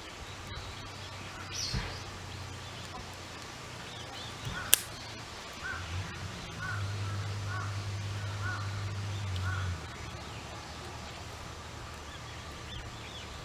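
A crow cawing, a run of short calls in the middle, with a single sharp click just before the calls start.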